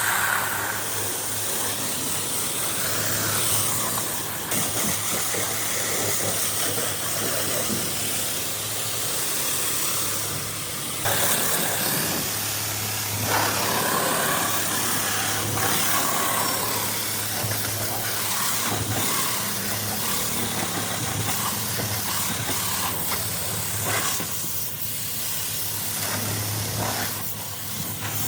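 Pressure washer spraying: a steady hiss of water spray over the low hum of the machine's motor, with the spray changing and easing off briefly a few times.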